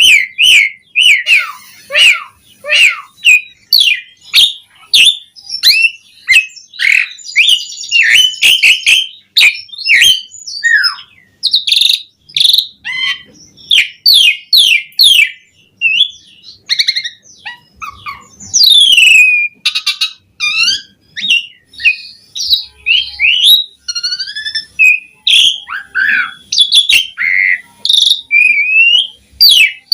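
Asian pied starling (jalak suren) singing continuously: a fast, varied string of whistles, chatters and sliding notes, full of mimicked phrases.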